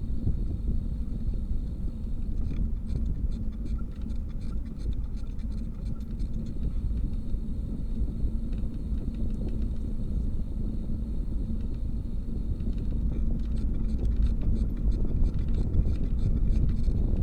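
Wind rumbling on the microphone of a moving bicycle, with stretches of rapid fine ticking about two seconds in and again near the end.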